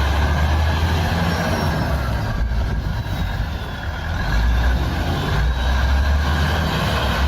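Truck engine running, a deep steady drone with a haze of noise over it.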